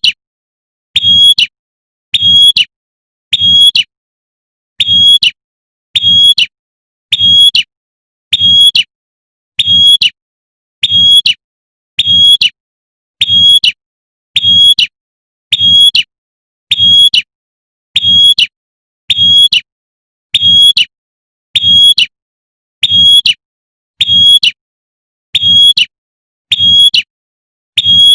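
Female prenjak (prinia) giving its sharp, shot-like 'tembakan' call over and over, one short call roughly every 1.2 seconds with silence in between: a call used to lure males.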